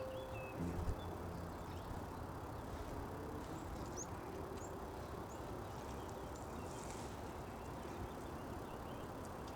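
Small birds chirping faintly now and then over a steady outdoor hiss of wind and woodland air.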